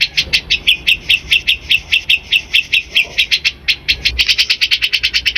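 Bulbul song: a rapid string of sharp, repeated chirping notes, several a second, which quickens into a fast trill about four seconds in.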